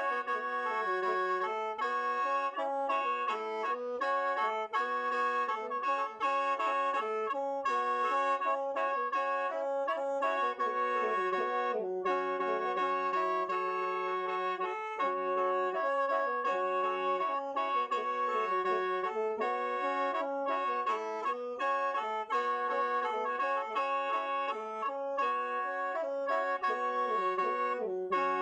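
Khaen, the Lao bamboo free-reed mouth organ, being played: a quick melody over steady held drone notes, without a break.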